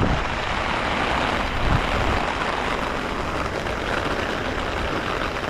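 Steady hiss of rain falling, with a couple of short low thumps near the start and about two seconds in.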